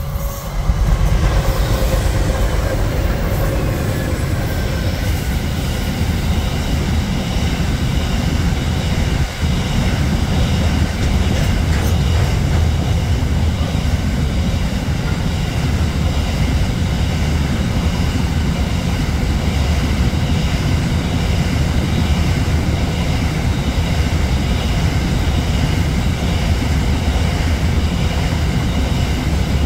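Grain train passing close by: its diesel locomotives go past in the first few seconds, their engine note falling in pitch, then a long string of grain hopper wagons rolls by with a steady rumble of wheels on rail and a faint high ringing.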